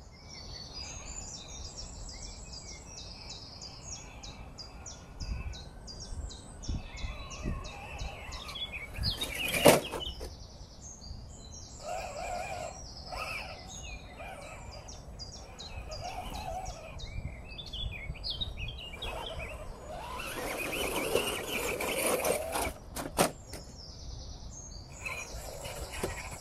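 Small birds chirping with rapid, repeated high notes, over bursts of rustling noise. A single sharp knock about ten seconds in is the loudest sound.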